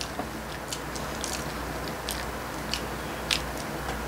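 A person chewing food close to the microphone, with scattered short, wet mouth clicks.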